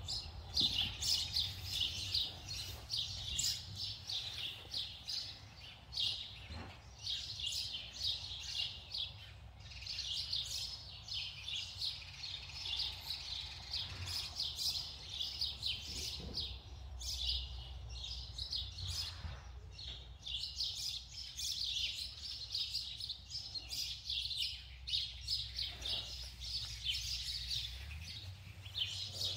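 Many small birds chirping rapidly and almost without a break, thinning out in a couple of short lulls.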